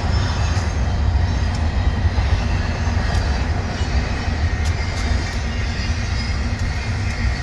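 Double-stack intermodal freight train rolling past: a steady, low rumble of wheels on rail, with faint scattered clicks.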